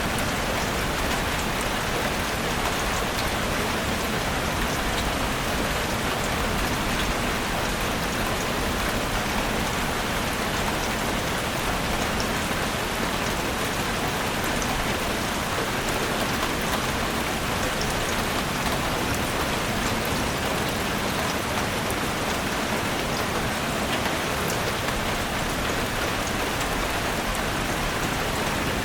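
Steady rain falling on a forest, an even hiss of many drops with fine scattered pattering.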